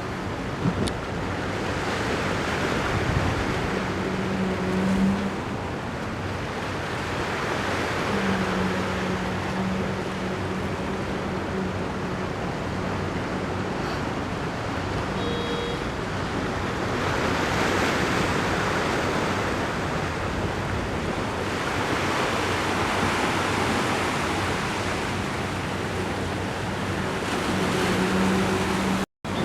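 Ocean surf: waves breaking and washing up the shore, the noise swelling and easing every several seconds.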